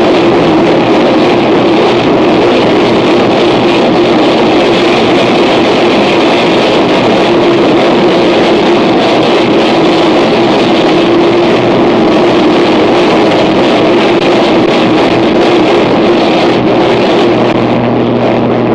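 Harsh noise music: a loud, unbroken wall of distorted noise with a steady drone running underneath. A low hum grows stronger near the end.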